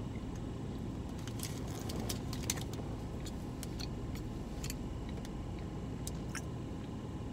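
A man chewing a soft protein bar, with small scattered mouth clicks and crackles over a steady low rumble in a car cabin.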